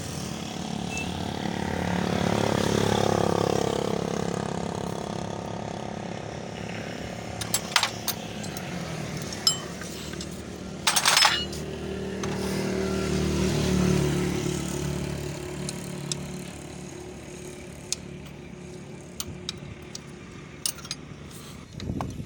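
Motor vehicles running past, their engine sound swelling and fading twice, with a few sharp metallic clinks and a short clatter of tools on metal parts.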